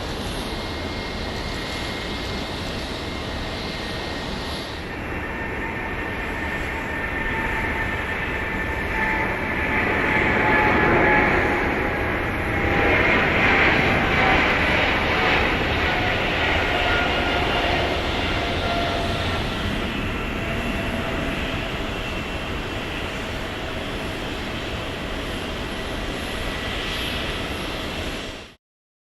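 Jet airliner's engines passing, with several whining tones sliding slowly down in pitch over a steady rumble. It grows loudest about ten to fourteen seconds in, then eases off, and cuts off suddenly near the end.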